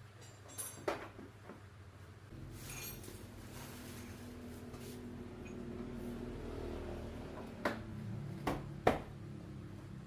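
Workshop handling sounds: sharp knocks and clinks of tools or parts, a couple near the start and three in the last few seconds, over a low steady hum that swells through the middle.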